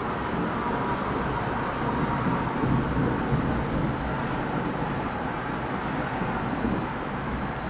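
Thunder rumbling low and steady, rolling on without a sharp crack.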